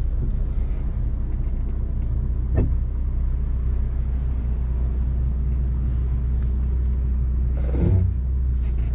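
Steady low drone of a 2020 Mini John Cooper Works GP's 2.0-litre turbocharged four-cylinder running at low revs as the car pulls away slowly, heard from inside the cabin. A brief knock comes a few seconds in and a short louder burst near the end.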